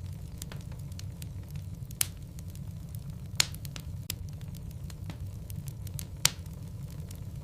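Burning logs crackling in a fireplace: a steady low rumble of the flames with sharp pops and snaps scattered through it, three of them louder, a couple of seconds apart.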